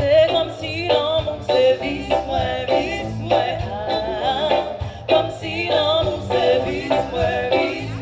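Live band music with a singer's voice carrying the melody over a steady bass line.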